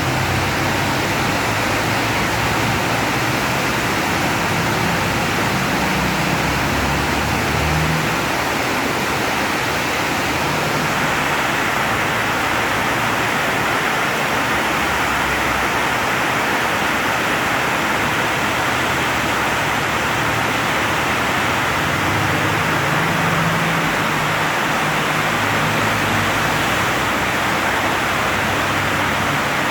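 Heavy rain pouring down in a steady loud hiss. A low hum swells under it twice, near the start and again about three quarters of the way through.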